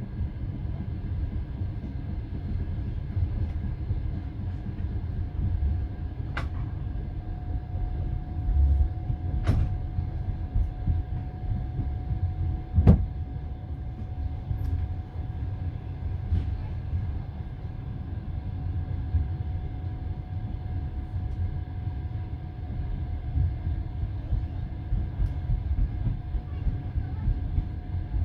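Passenger train carriage rolling along the track, heard from inside: a steady low rumble of wheels on rail with a faint steady whine. Three sharp knocks come around the middle.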